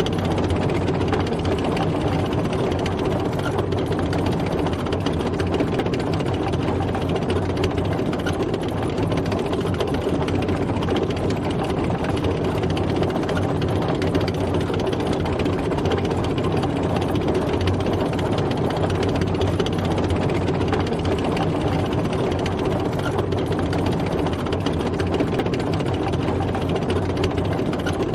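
Tank driving: a steady engine drone with an even mechanical noise over it.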